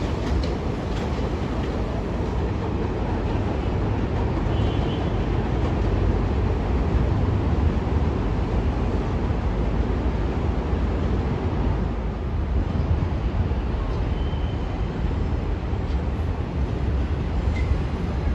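New York City subway train running along the tracks: a steady, even wheel-and-rail noise with no sudden changes.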